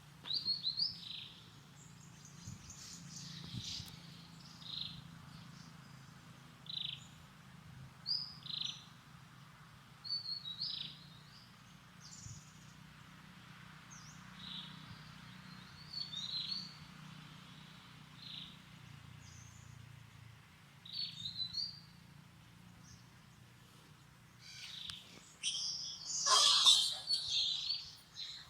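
Short high-pitched chirping calls, roughly one a second, each a brief downward sweep, then a louder burst of harsher calls near the end.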